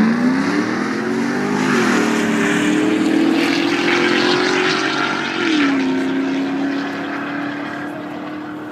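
Mercedes M119 5.0-litre V8 at full throttle with AMG exhaust, its note climbing under hard acceleration, dipping briefly at an upshift about two seconds in and dropping again at a second upshift about five and a half seconds in. The sound fades over the last few seconds as the car pulls away.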